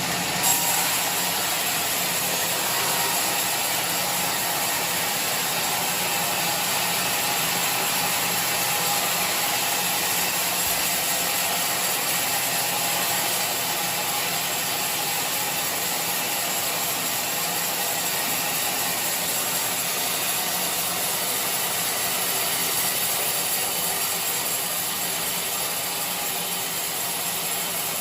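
Sawmill machinery running steadily: a dense, unchanging mechanical noise with a strong hiss, with one short click right at the start.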